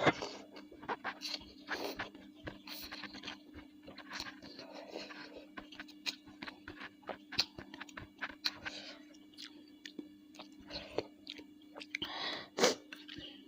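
Close-miked chewing of bakso meatballs, with wet mouth clicks and smacks coming irregularly and a few short bursts of slurping or breathing near the end.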